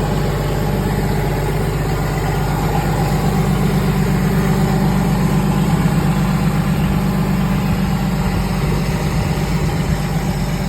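Old Jeep engine idling steadily after its first start during restoration, growing a little louder midway and easing back.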